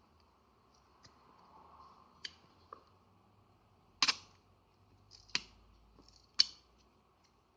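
Sharp clicks and taps of small tools and parts against a smartphone's casing as it is taken apart. A few light clicks come first, then three louder snaps about four, five and a half and six and a half seconds in.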